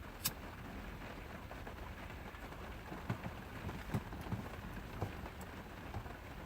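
Steady rain falling, with scattered drips and light ticks on a surface and a sharp click just after the start.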